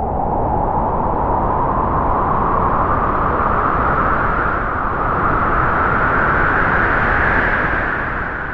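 A loud, steady rushing noise that begins abruptly and rises slowly in pitch.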